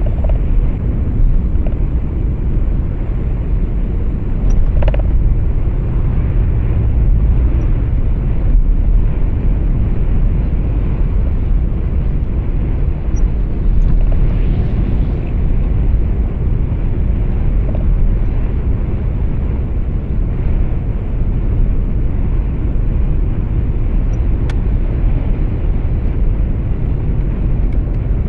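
Truck cab interior noise while driving: a steady low rumble of engine and road. A brief faint higher sound about five seconds in and a faint click near the end.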